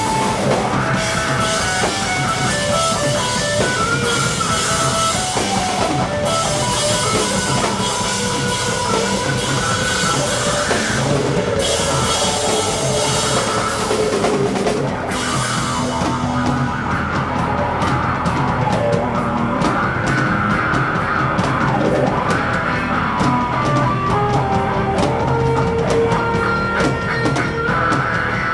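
Rock band playing live, with drum kit and guitar. Cymbals wash loudly through the first half, then thin to a lighter, ticking beat about halfway through.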